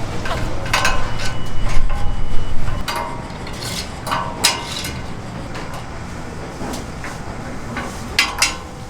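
Kitchen work clatter: sharp metal knocks and clanks of utensils and cookware, a few at a time, with a low rumble underneath that is loudest for the first three seconds.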